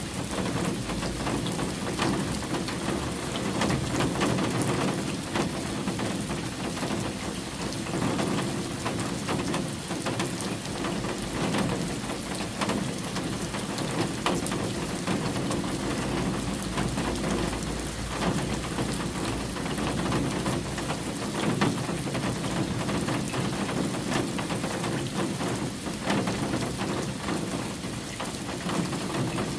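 Steady rain falling, with many separate drops ticking over the continuous wash of the downpour.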